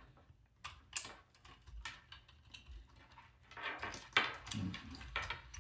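Small clicks and light rattles of plastic robot parts and cables being handled, as wires are unplugged and pulled back out. The clicks are irregular, with a busier spell of handling a little past the middle.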